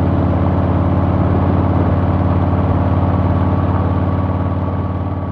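Harley-Davidson Milwaukee-Eight V-twin engine running steadily with a rapid low pulse. It gets quieter near the end.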